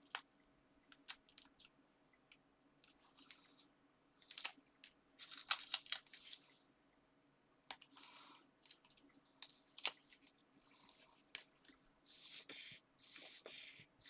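Paper and card handled up close: scattered clicks and taps with short rustling and tearing sounds, and longer rustles near the end, as double-sided foam pads are peeled and a fussy-cut paper topper is pressed down onto a card.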